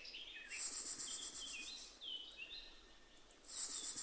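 Outdoor nature ambience: small birds chirping in short, downward-sliding calls over a high, finely pulsing insect trill. The sound drops away to near silence for about a second around two and a half seconds in, then the trill and chirps return.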